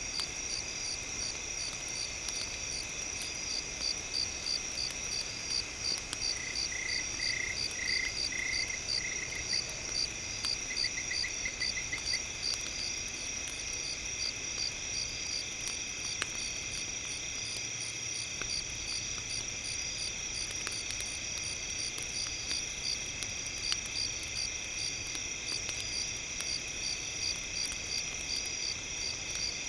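Crickets and other night insects chirping steadily in several high pitches, with two short chirp trills early on. Scattered faint crackles from a campfire run underneath, as part of a campfire ambience track.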